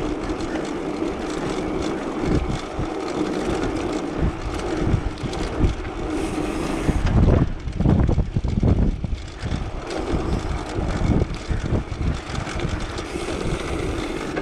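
Wind buffeting the microphone of a riding cyclist in a headwind, in irregular gusts that are heaviest about seven to nine seconds in, over a steady rolling road noise.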